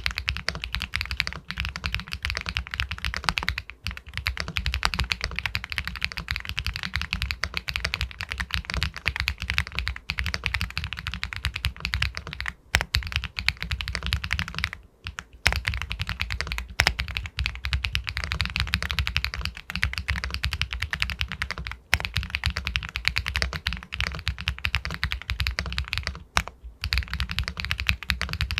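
Fast, continuous typing on an Epomaker Galaxy 80 Pro full-aluminium mechanical keyboard with White Jade linear switches: dense keystrokes with a pebble-like clack, broken by a few brief pauses.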